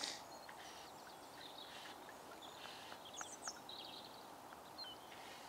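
Small birds chirping and trilling in short high phrases over a steady outdoor hiss, with one brief sharp tap right at the start.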